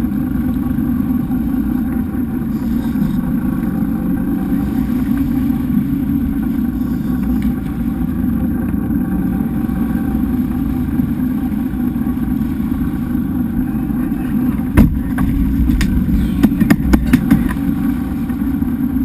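Boat engine running steadily. There is one hard knock about three-quarters of the way through, then a quick run of sharp knocks soon after.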